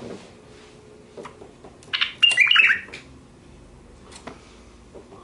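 White-eared bulbul giving a loud burst of quick calls, about a second long, about two seconds in, with several notes falling in pitch. A few faint clicks come before and after.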